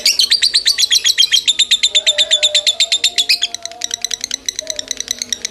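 Lovebird chattering: a loud, rapid, unbroken string of sharp high chirps that eases briefly about three and a half seconds in, then carries on.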